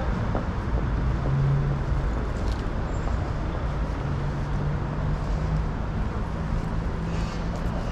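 Road traffic on a city street: a steady low rumble, with a low engine hum that comes and goes.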